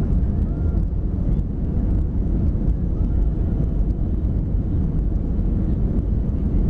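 Steady low rumble of engine and airflow noise inside the cabin of a Boeing 737-300.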